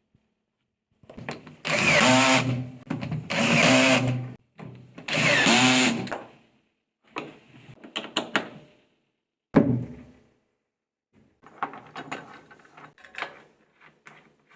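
Power drill-driver running in three bursts of about a second and a half, its motor pitch rising and falling, followed by scattered clicks and knocks.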